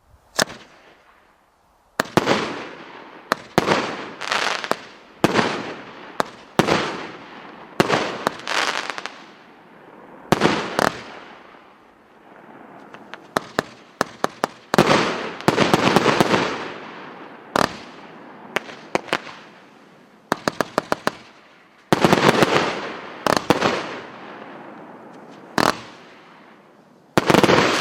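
Pyroman OTS 5137 firework battery firing: a long series of sharp bangs, about one a second, each followed by a fading tail, with quick runs of several pops in places.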